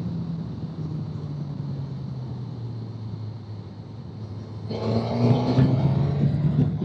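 Motorcycle engine heard from the riding bike, its note sinking slowly as it rolls off the throttle. About three-quarters of the way in, the throttle opens and the engine note gets louder, rising as the bike accelerates.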